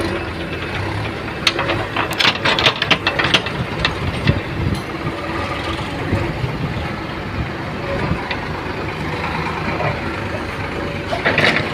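Diesel engine running steadily, with a burst of clattering knocks from about a second and a half in to three and a half seconds, and another short burst near the end.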